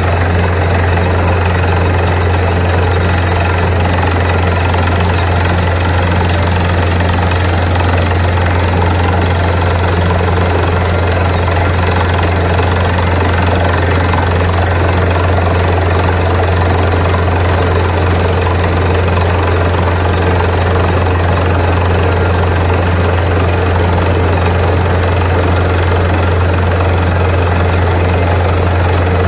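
Borewell drilling rig running steadily, a loud unbroken heavy-engine drone with a strong low hum.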